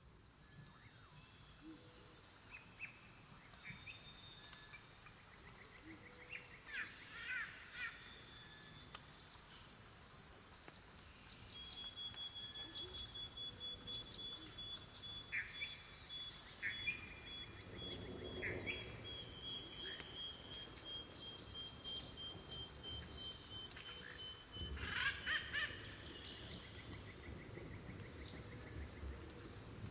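Rainforest ambience: insects buzzing steadily, with scattered bird and animal chirps and whistles. A long, high, finely pulsed trill begins about twelve seconds in and runs for roughly twelve seconds.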